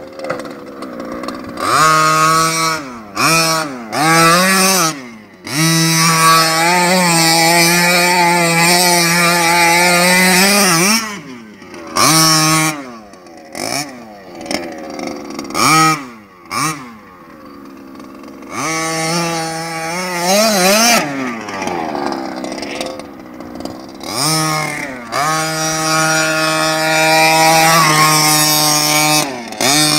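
Small two-stroke gas engine of a 1/5-scale HPI Baja 5SC SS RC truck, revving in repeated bursts of throttle: quick rising and falling blips, two longer stretches held at high revs, and brief drops back toward idle.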